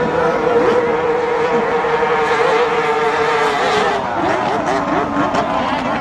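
Racing boat engine running at high revs, its steady whine dropping in pitch about four seconds in.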